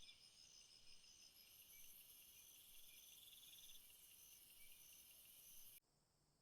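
Faint chorus of crickets and other insects trilling in several overlapping high-pitched tones, some steady and some pulsing, cutting off suddenly near the end.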